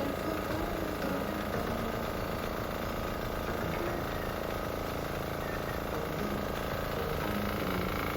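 10 hp diesel engine fitted to a multi-purpose shredder, running steadily at an even speed.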